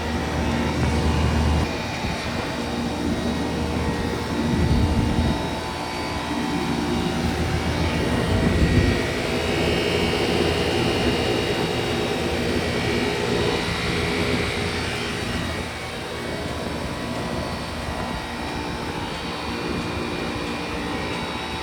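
Heat-pump outdoor units running: a steady fan rush over a compressor hum with several fixed tones. Louder low rumbles come and go a few times in the first nine seconds.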